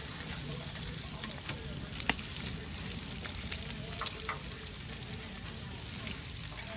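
Bacon sizzling steadily on a gas grill over raised heat, with a sharp click about two seconds in.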